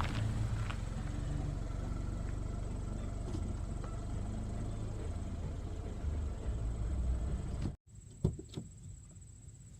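A steady low rumble that cuts off abruptly about eight seconds in, followed by a much quieter stretch with a few short clicks.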